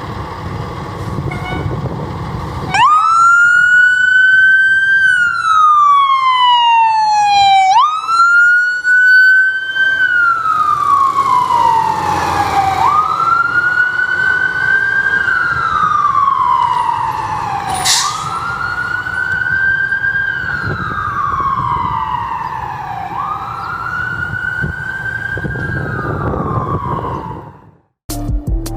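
Fire squad truck's siren wailing in about five slow cycles, each a quick rise in pitch followed by a long falling sweep. A low rumble comes before the siren starts about three seconds in, and the sound cuts off abruptly near the end.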